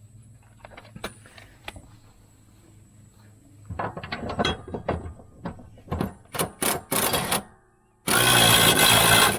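Mechanical work on metal: scattered clicks, then a run of irregular clattering strokes, then a loud burst of a power tool lasting just over a second near the end, starting and stopping abruptly.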